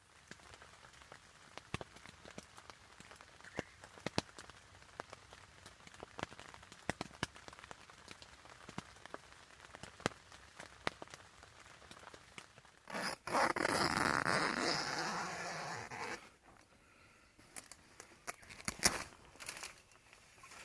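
Scattered faint clicks and taps, then about two-thirds of the way through a loud scraping pull of a zipper lasting about three seconds, followed by a few more clicks.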